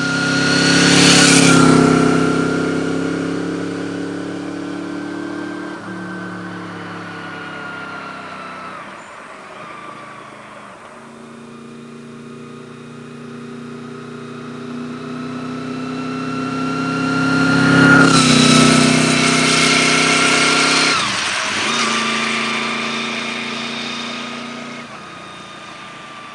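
Honda VFR V4 motorcycle accelerating hard through the gears: the engine note climbs and then drops sharply at each upshift, four times. It is loudest twice, about a second in and again around 18 seconds.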